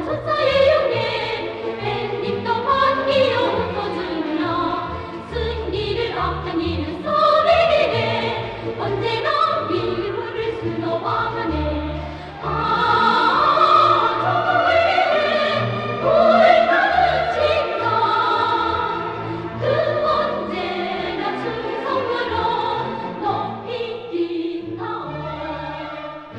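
A choir singing with orchestral accompaniment in an operatic style.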